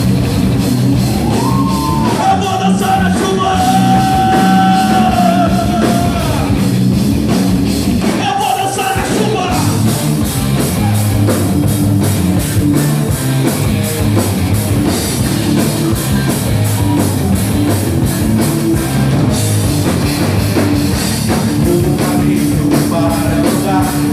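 A band playing a rock-style worship song with drum kit, bass and guitars. Long held melody notes sound over the band for about the first nine seconds, then it carries on as a denser instrumental passage.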